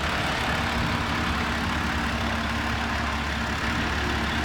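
Heavy diesel engine idling steadily, with a constant low hum and an even tone.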